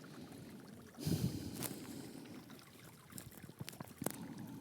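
Outdoor breeze on the microphone, with a low rumbling gust about a second in and a few sharp clicks or rustles near the end.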